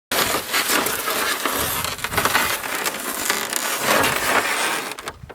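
Loud, dense crunching and crackling that starts abruptly and falls away about five seconds in.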